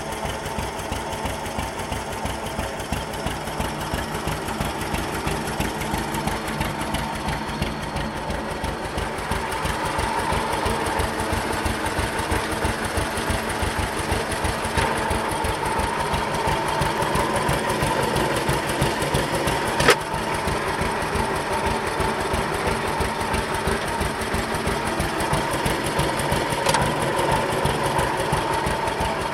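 John Deere 520 two-cylinder tractor engine running steadily with its PTO engaged, a rapid even beat of exhaust pulses. A single sharp click about two-thirds of the way through.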